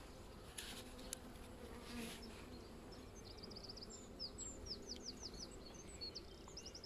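Honeybees humming faintly and steadily around an open hive. From about three seconds in, a small bird sings quick, high chirps and twitters.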